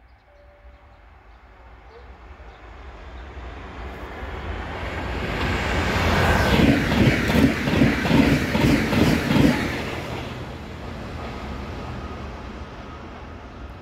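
Train passing by: a rising rumble as it approaches, a rapid run of rhythmic wheel clacks over the rails as the cars go past about six seconds in, then a fading rumble as it moves away.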